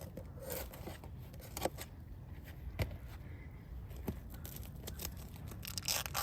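Roof shingles being handled and pried at: a few separate sharp clicks and light scrapes, then a denser, longer scraping rustle near the end.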